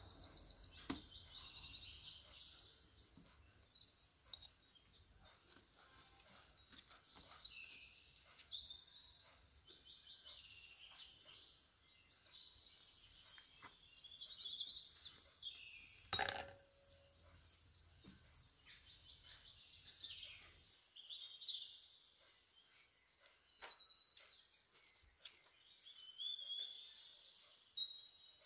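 Birds chirping and trilling in short repeated phrases in the background, with a single sharp knock about sixteen seconds in.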